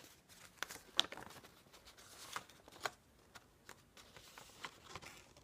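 Sheet of paper being handled and folded: a string of crisp paper rustles and creases, the sharpest about a second in, thinning to fainter taps after about three seconds.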